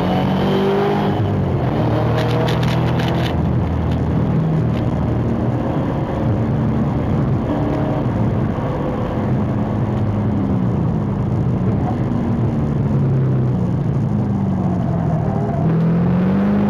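Car engine heard from on board while lapping a race circuit, with wind and road noise. The engine note dips and climbs again several times in the second half as the car slows for corners and accelerates out of them.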